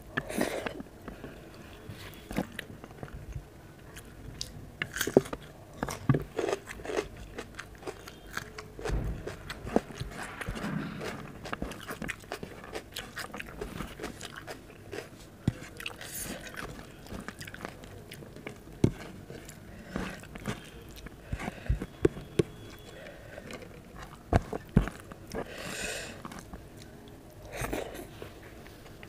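Close-miked eating sounds: a person chewing mouthfuls of mung dal and rice, with many irregular sharp wet clicks of the mouth throughout.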